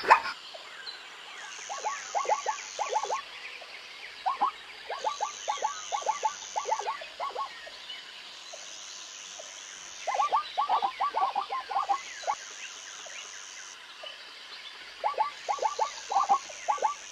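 Jungle ambience: frogs calling in rapid series of short croaks, several groups with pauses between them, over a high insect buzz that switches on and off in regular blocks.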